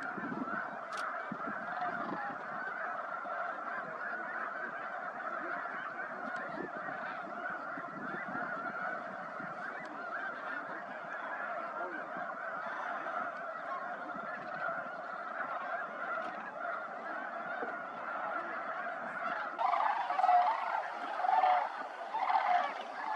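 A large flock of birds calling all at once in a dense, continuous chorus of honking calls. It swells louder near the end as nearer birds call.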